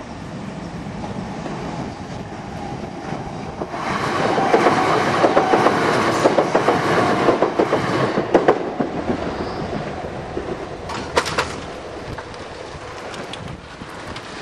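A train running past, its wheels clattering over the rail joints. The sound builds about four seconds in, is loudest for several seconds, then fades away.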